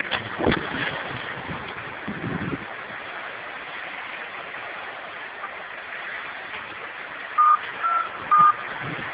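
Steady rushing hiss with a few low thumps in the first couple of seconds, then three short electronic beeps of slightly different pitch near the end, like keypad tones.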